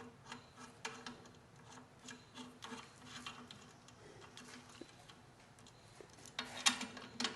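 Small metallic clicks and ticks of nuts, washers and lock washers being taken off and threaded back onto bolts by hand, irregular throughout, with a louder flurry of clicks near the end.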